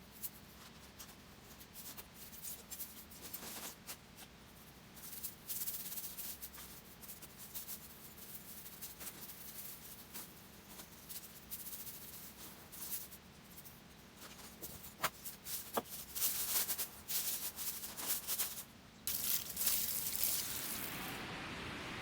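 Irregular dry rustling and light scraping, in short crisp bursts that grow denser and louder in the second half.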